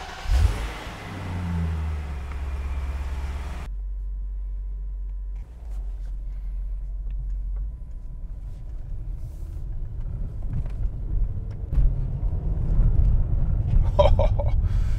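Supercharged V8 engine of a BMW Alpina B7 starting and revving briefly, then running steadily as the car pulls out and drives off. The engine gets louder over the last few seconds.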